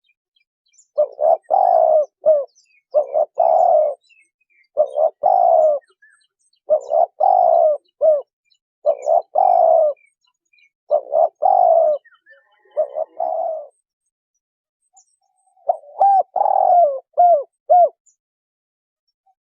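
Spotted dove cooing: about eight loud, repeated coo phrases, one every couple of seconds, with a short pause before the last one.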